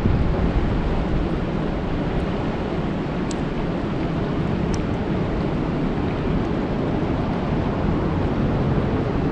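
Steady rain falling on a lake, an even dense hiss weighted toward the low end, with a few faint sharp ticks of individual drops.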